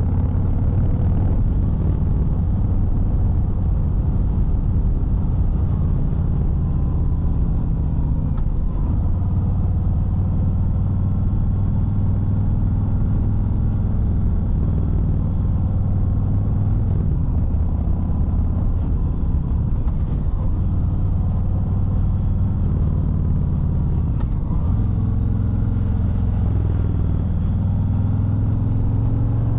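Harley-Davidson Fat Bob 114's Milwaukee-Eight 114 V-twin running under way on a ride, a steady low rumble. The engine note drops and picks up again several times as the throttle changes.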